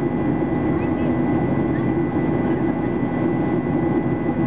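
Steady cabin drone of a Boeing 737-800 in flight: its CFM56 jet engines and the rushing airflow make an even, unchanging noise, with a thin steady whine above it.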